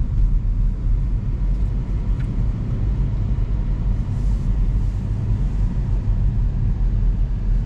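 Steady low rumble inside a moving car's cabin: road and engine noise while driving.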